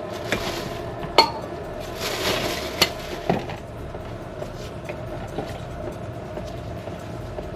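A few sharp metallic clinks and knocks, loudest about a second in and near three seconds in, with rustling between, from tools and parts being handled during an oil filter change.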